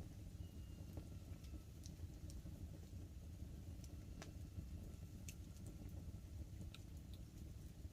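Wood campfire burning, with sparse sharp crackles and pops over a low steady rumble.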